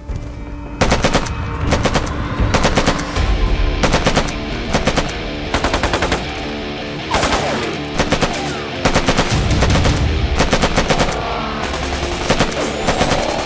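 Machine-gun fire in many short rapid bursts, as in a film battle scene, over background music.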